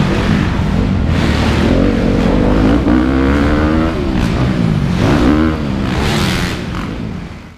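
Motocross dirt bike engines revving, the pitch rising and falling with the throttle again and again; the sound fades out near the end.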